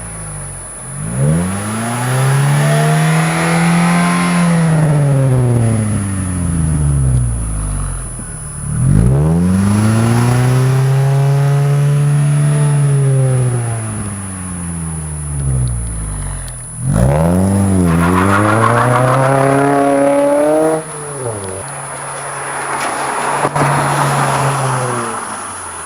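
Mitsubishi Lancer IX 2-litre engine through a straight-through sport exhaust, revved up and back down about four times, each rise and fall taking several seconds, the third one shorter and sharper.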